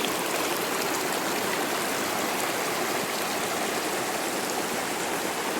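Small hillside stream flowing and splashing in a steady rush of water.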